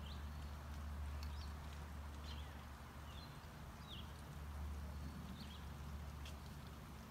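Birds chirping in short, high notes, scattered about a second apart, over a low rumble that comes and goes.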